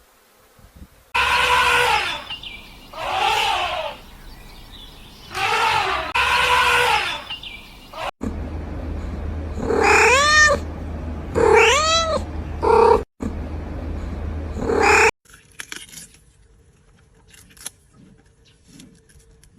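Cat meowing repeatedly: about eight separate meows, each rising then falling in pitch, in two runs with abrupt cuts between them. Faint clicks and rustling follow in the last few seconds.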